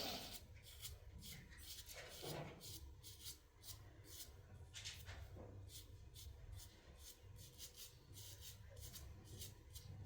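Faint rustling and light clicking of small objects being handled, in many short irregular strokes over a low hum.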